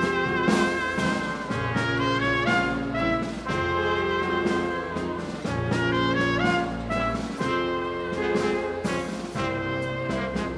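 A dance band playing a Latin tune, with the brass section (trumpets and trombones) carrying sustained chords over bass and percussion.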